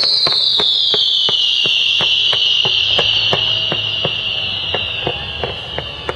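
Fireworks display: a long, loud whistling firework slowly falling in pitch and fading near the end, over many sharp cracks and reports from distant shells.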